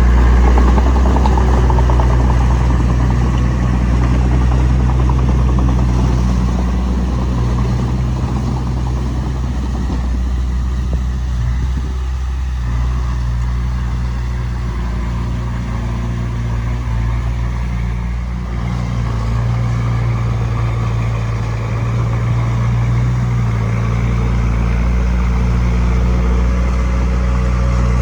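Diesel engine of a Komatsu D20P crawler bulldozer running under load while pushing sand, a steady drone whose pitch and loudness dip and rise a few times.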